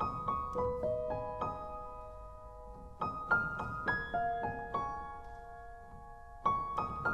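Background piano music: a soft melody in short phrases of struck notes that ring and fade, starting anew about three seconds in and again near the end.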